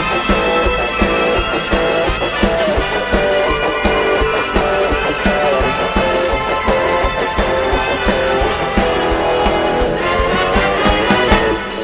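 Thai Isan band music with a steady drum beat under guitar and other melodic instruments.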